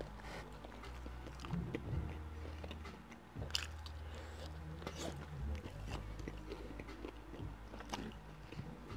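Close-miked chewing and biting of fried shrimp: wet mouth clicks and small crunches scattered throughout, with a sharper click about three and a half seconds in, over a low steady hum.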